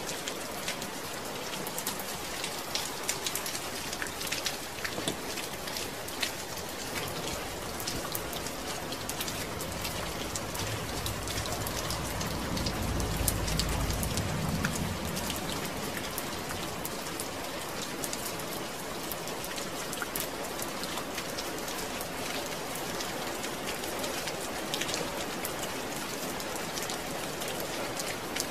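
Steady rain falling on a surface, a dense patter of individual drops. A low rumble swells and fades around the middle.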